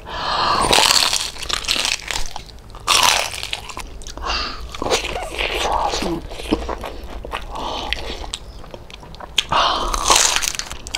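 Close-miked biting and chewing of crispy lechon kawali (deep-fried pork belly). Loud crunches come about half a second in, around three and five seconds, and again near the end, with quieter chewing between.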